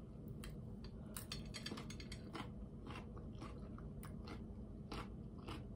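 Close-up mouth sounds of someone chewing a crunchy cucumber and tomato salad: faint, irregular wet crunches and clicks with no words.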